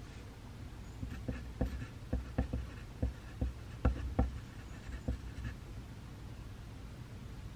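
Pencil writing on paper: a run of short, irregular strokes and taps lasting a few seconds, over a steady low room hum.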